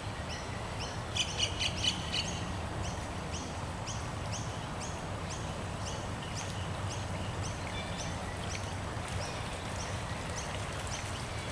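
Birds calling: one bird repeats a short high note about twice a second, with a brief flurry of louder chirps about a second in. Under it runs the low steady rush of the flooded river.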